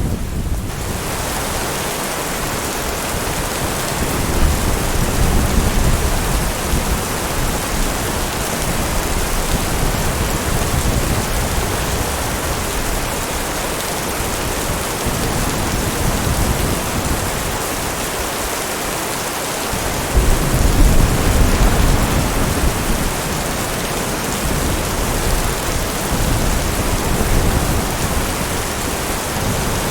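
Steady heavy rain falling, with low rolls of distant thunder swelling twice, the stronger one about twenty seconds in.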